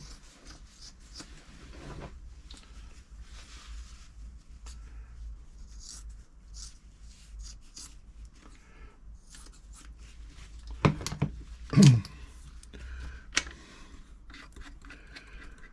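Fabric being handled and rustled, with scattered small clicks. There is a cluster of louder knocks about eleven to thirteen seconds in.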